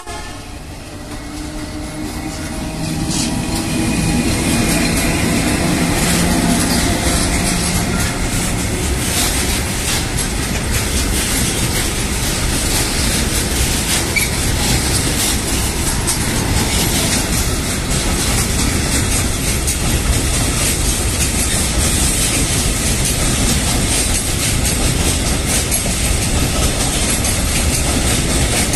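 TCDD E 43031 electric locomotive hauling a container freight train past at close range. A low hum from the locomotive grows louder over the first few seconds and fades out after about nine seconds. The steady rumble and clatter of the loaded container wagons' wheels on the rails goes on after that.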